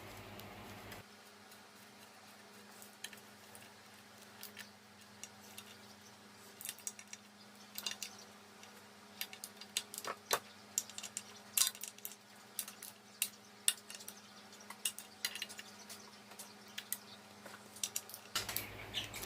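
Light, irregular metallic clicks and clinks, growing more frequent toward the end, as the last bolt is fitted and tightened with a ratchet into the engine's cover plate.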